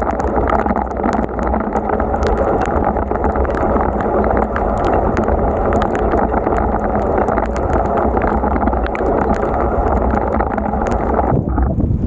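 Steady rush of wind and rain on the microphone while riding a bicycle in a downpour, with many sharp clicks of raindrops striking the camera. The sound turns briefly duller near the end.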